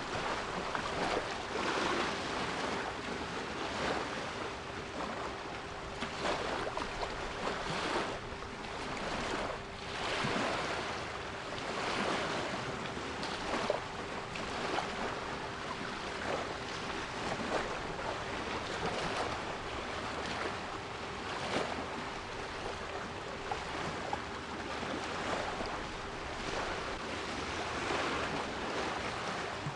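Sea waves washing and breaking in uneven surges, with a steady 396 Hz pure tone sounding underneath.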